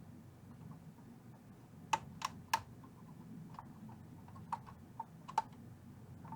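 Light, sharp metallic clicks of small hand tools such as pliers working at a wire hooked around a terminal inside an amp chassis: three close together about two seconds in, then a few fainter ones, over a faint low hum.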